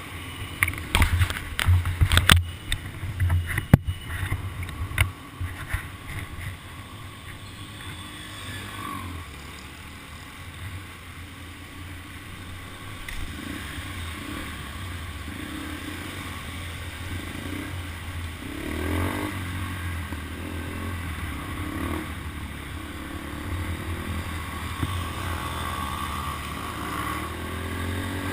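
Motorcycle engine running with a few rises and falls in revs, heard through a helmet-mounted camera microphone; a cluster of loud knocks and thumps in the first few seconds.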